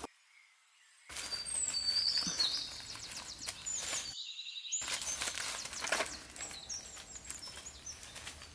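Small birds chirping and twittering in short high calls over outdoor background noise, with frequent sharp clicks and crackles. The sound drops out to near silence for about a second at the start and briefly again around four seconds in.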